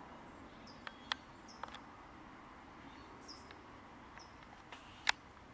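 Faint outdoor ambience with a few short, high chirps from small birds and several sharp clicks, the loudest about five seconds in.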